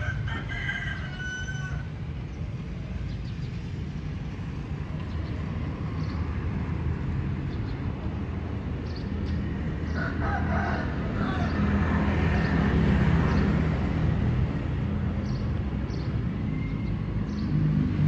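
A rooster crowing in the background, once near the start and again about ten seconds in, over a steady low rumble.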